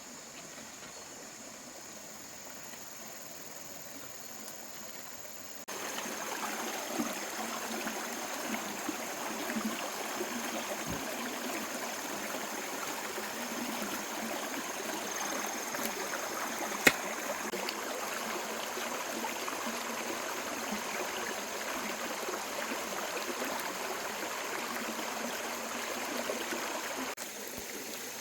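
Running water, a steady rushing trickle that steps up abruptly about six seconds in and drops back near the end, with a single sharp click about halfway through.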